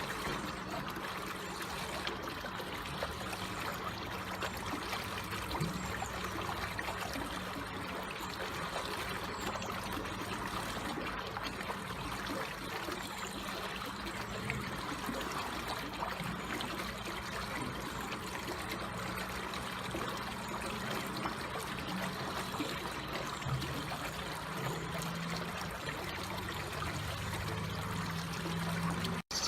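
Slowly flowing water trickling steadily. The sound cuts out for an instant near the end.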